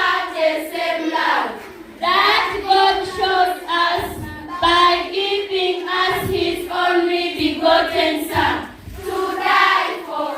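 A group of children singing together, in phrases with short breaks about two seconds in and again near the end.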